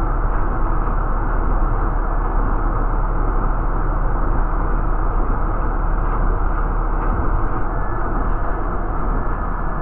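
City transit bus in motion: a steady drone of engine and road noise with a low rumble and a faint steady whine.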